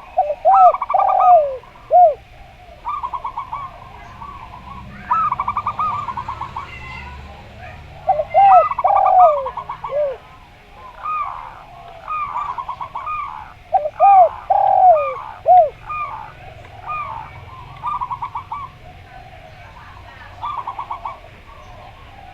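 Zebra doves (perkutut) and a derkuku dove cooing together in repeated phrases. Quick rattling runs of short, higher coos alternate with lower, arching coos that swoop up and fall away.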